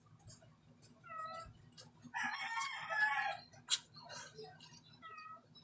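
Short pitched animal calls, a cat-like meow about a second in and again near the end, with a louder, longer, rougher call in between and a few sharp clicks.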